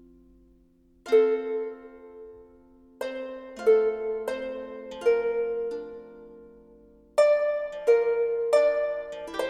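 Background music: a slow, sparse melody of plucked, harp-like notes, each struck sharply and ringing away. The first comes about a second in, after a quiet gap, and later notes follow at irregular spacing.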